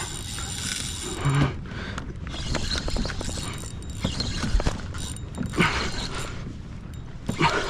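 Daiwa BG 3000 spinning reel's drag clicking in uneven bursts as a big hooked redfish pulls line off.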